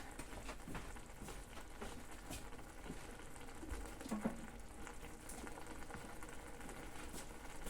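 Diced onion and spinach frying in a pan, sizzling and crackling softly as their water cooks off, with a brief louder sound about four seconds in.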